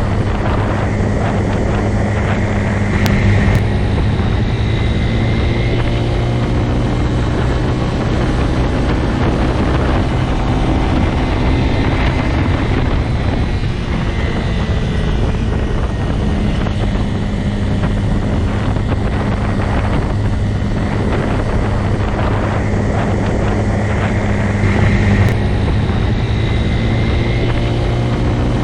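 Motorcycle engine running steadily, a constant low drone that shifts a little in pitch, with brief louder swells about three seconds in and near the end.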